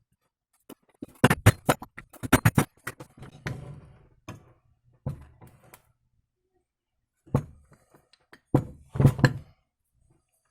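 Sharp metal knocks and taps in uneven clusters, from tools and parts being worked while a driveshaft universal-joint cross is changed: a quick run of knocks, a few scattered ones, then another cluster near the end.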